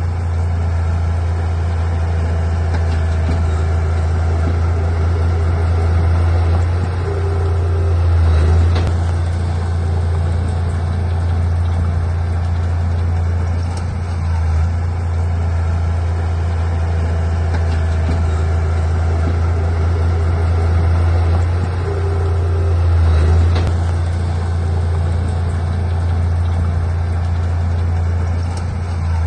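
Heavy diesel engine of earthmoving equipment running steadily with a deep low hum, swelling in loudness briefly twice.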